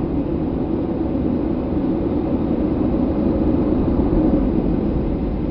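Airliner engine and cabin noise during takeoff: a steady, deep rumble, heard from inside the cabin.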